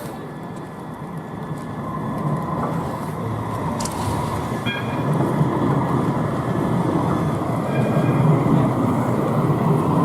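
A tram running on rails, getting louder as it approaches. Thin high tones join about halfway in.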